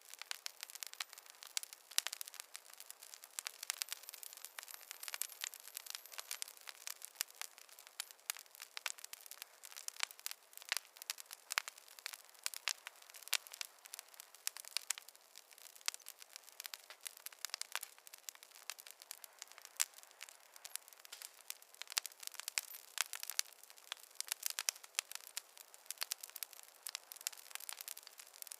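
Wood fire crackling in a fireplace: a steady run of sharp snaps and pops, several a second, thin with no low rumble.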